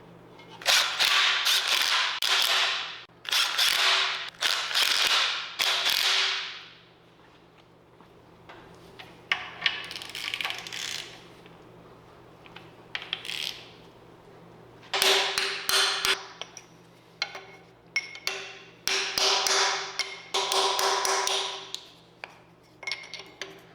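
Ratchet wrench running bolts in, in bursts of a second or two with short pauses. It comes first in a few bursts, then pauses, then runs again in a longer string of clicking bursts later on.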